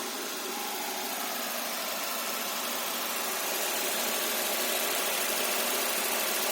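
Toyota 5A-FE four-cylinder petrol engine running steadily while water is drawn into it to clean out carbon deposits, slowly growing louder.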